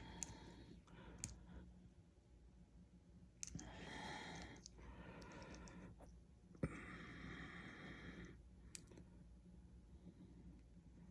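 Faint, scattered clicks and taps of small plastic toy parts and a tiny screwdriver being handled, the sharpest click about six and a half seconds in. Two brief breathy rushes, one about three and a half seconds in and one right after the sharp click.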